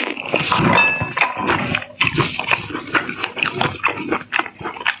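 Wet chewing and lip-smacking while eating seafood: a rapid, irregular run of smacks and clicks, with a short squeaky sound about a second in.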